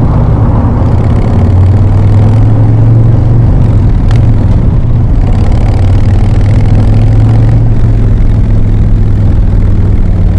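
Harley-Davidson V-twin engine running through an aftermarket Jekyll & Hyde exhaust while riding, a steady deep drone.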